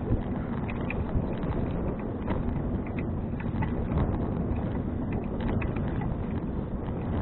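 Touring bicycle being ridden, its frame and parts rattling with small irregular clicks over the road surface, under steady rushing wind on the action camera's microphone.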